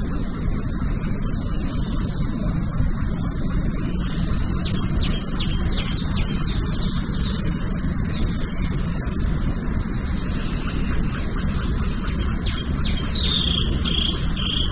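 Insects droning in two steady high-pitched tones, with birds chirping in quick short notes from about four seconds in, more of them near the end, over a steady low rumble.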